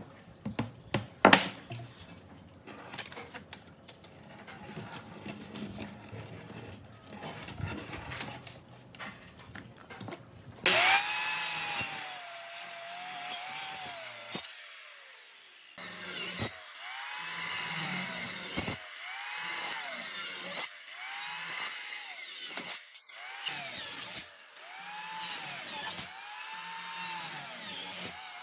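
Scattered knocks and clicks of wood being handled, then, about ten seconds in, a handheld power tool starts working the wood. Its whine dips and recovers over and over, about once a second, as it is pressed into the wood. It stops briefly once, then carries on.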